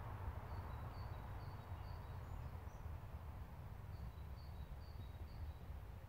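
A small songbird giving a short phrase of about four thin high notes, twice, over a steady low rumble.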